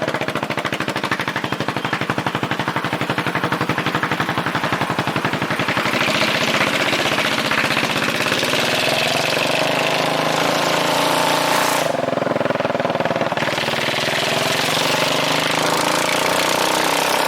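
Straight-piped 2009 Yamaha Majesty 400 scooter's single-cylinder engine running loud with no muffler, a rapid, even pulsing exhaust beat. It revs up about six seconds in, eases off briefly around twelve seconds, then picks up again.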